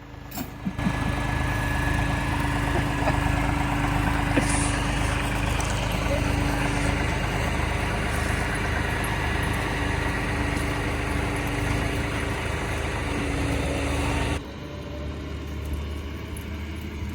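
Kubota L2502 compact tractor's diesel engine running steadily. About 14 seconds in the sound drops suddenly to a quieter level.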